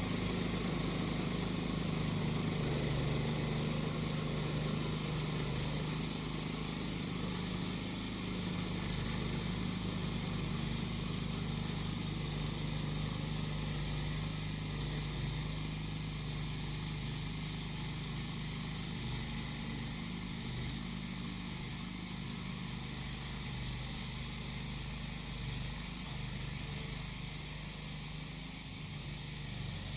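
Small engine of a grass-cutting machine running steadily at an even speed, with cicadas singing continuously over it.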